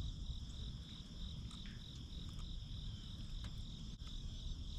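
A steady, high-pitched chorus of insects chirping without pause, with a low rumble underneath and a few faint clicks.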